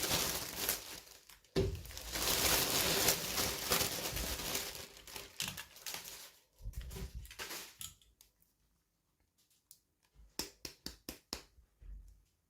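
Plastic toy packaging being crinkled and torn open by hand, then a few light clicks near the end.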